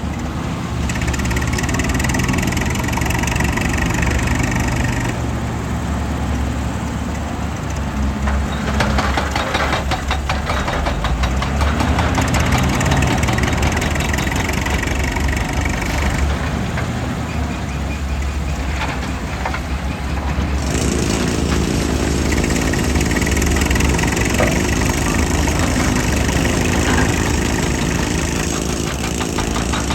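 Heavy machine's engine running continuously, with a low rumble and some clatter, its sound changing abruptly about two-thirds of the way through.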